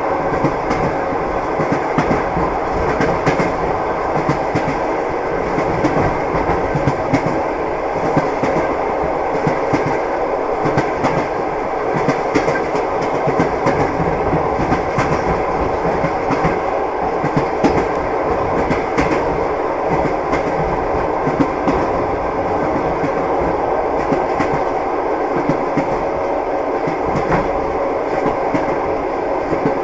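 Moving train's wheels clattering over the rails: a steady rumble dotted with frequent sharp clicks, keeping on without change.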